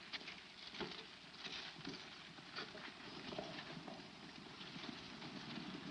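Horse hoofbeats clopping irregularly on dirt, over the steady hiss of an old film soundtrack.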